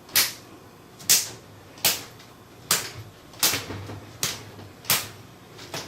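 Footsteps on a hard floor, a steady walking pace of one sharp step about every 0.8 seconds.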